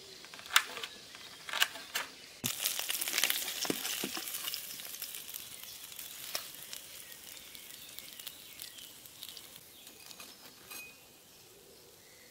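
A few sharp clicks, then about two and a half seconds in a sudden sizzle as food goes into hot cooking oil in a pan. The frying hiss slowly dies down and fades out near the end.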